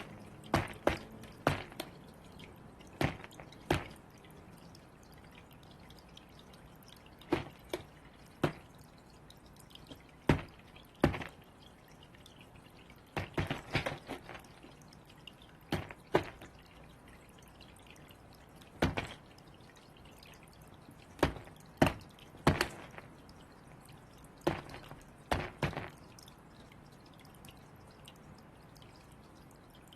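Irregular sharp taps and knocks, a few every few seconds, some in quick pairs, typical of crows pecking with their beaks at food balls.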